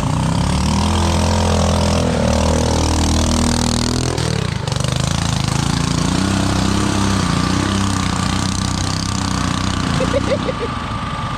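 Farm tractor engine running hard in a mud pit, its pitch sinking and then swelling again around two to four seconds in.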